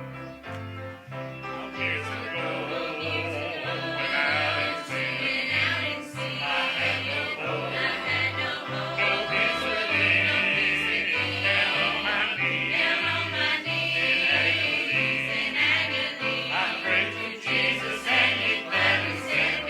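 Church choir singing a gospel song over instrumental accompaniment with a steady bass line of about two notes a second. The voices grow stronger about two seconds in.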